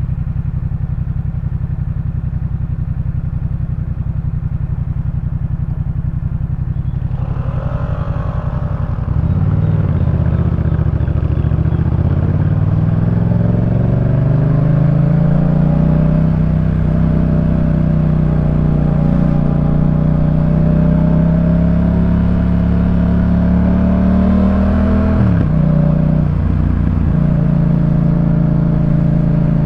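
2018 Yamaha MT-07's 689 cc parallel-twin engine through a Jeskap K4 full exhaust. It runs steadily at low revs, then about nine seconds in the revs climb over several seconds and hold higher. Near the end the revs dip briefly before settling again.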